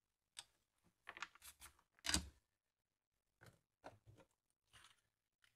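Scattered small clicks and scrapes of tools and parts being handled on a workbench, with one louder knock about two seconds in.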